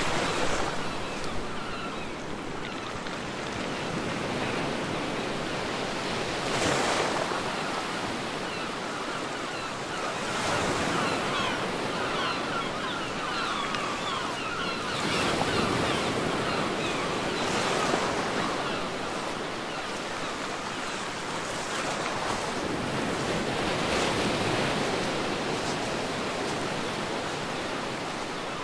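Ocean waves breaking and washing up a beach, the surf swelling and easing every few seconds.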